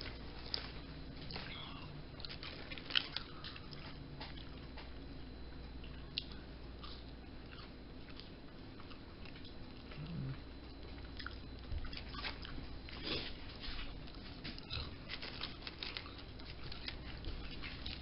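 A person chewing food close to the microphone: soft crunches and small wet mouth clicks, coming thicker in the last few seconds, over a faint steady low hum.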